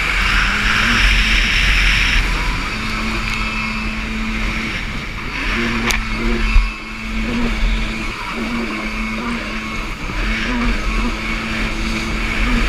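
Jet ski engine running at a steady pitch, its revs rising and dipping slightly several times, with wind rumbling on the microphone. A rushing hiss fills the first two seconds, and there is one sharp knock about six seconds in.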